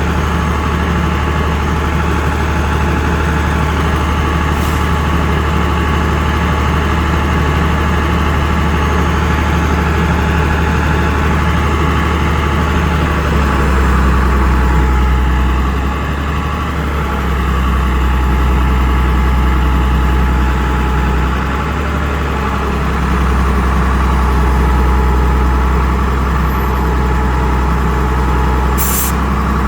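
Bucket truck's engine running steadily with a strong low drone that swells slightly a few times.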